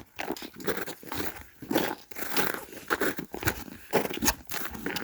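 Footsteps crunching through dry leaves and twigs on a woodland trail, a string of uneven crackling steps.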